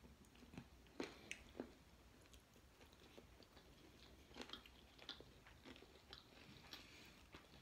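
Faint, irregular chewing and small mouth clicks of people eating fried chicken and waffles.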